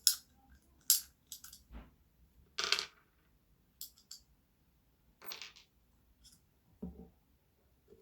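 Irregular sharp clicks and clinks of small hard parts and tools being handled at a workbench, about a dozen in all, with two short rattles in the middle.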